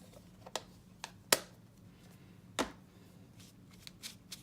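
A few irregular sharp taps and clicks from craft supplies being handled on a desk during watercolouring, the loudest about a second and a half in.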